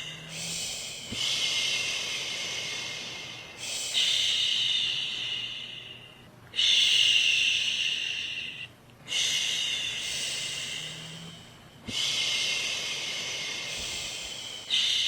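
A woman's voice making long 'shhh' shushing sounds, one after another about every two and a half to three seconds, each starting sharply and fading away, to soothe a baby to sleep.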